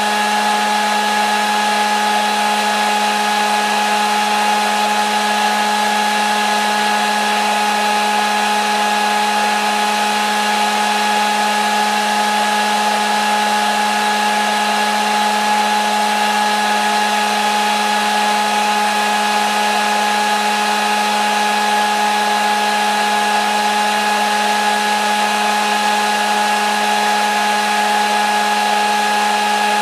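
Electric hair dryer running steadily with a constant motor whine and rush of air, unchanging throughout.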